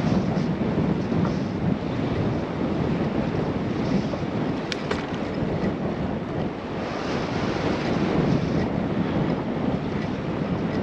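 Wind rushing over a GoPro microphone while riding a bicycle, a steady low rumbling noise, with one short click about five seconds in.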